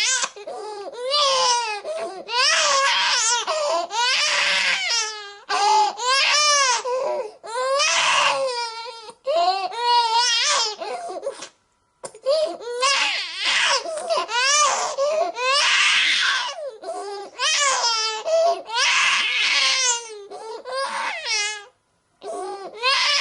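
Infant crying: a run of high-pitched wailing cries, each rising and falling in pitch, with short catches of breath between them. The crying cuts out briefly twice, about halfway through and near the end.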